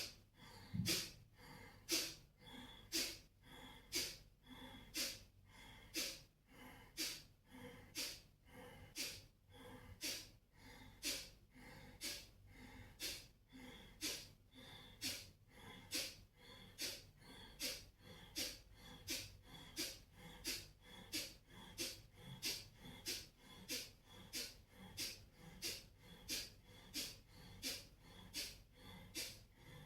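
Kapalabhati breathing: short, forceful exhalations pumped out through the nose in a steady rhythm of about two a second, the abdomen snapping in on each, with the passive inhales barely heard between them.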